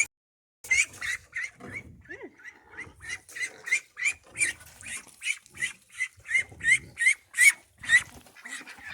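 Domestic waterfowl calling over and over: a quick run of short, rising, loud calls, about three a second, beginning just after a half-second break in the sound at the start.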